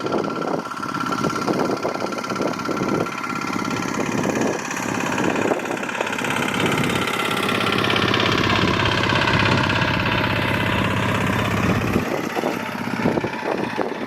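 An engine running close by, strongest in the middle, its pitch dipping and then rising again, with rustling and knocks around it.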